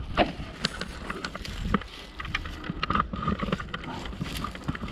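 Wind rumbling on the microphone, with scattered clicks and knocks from the camera being handled.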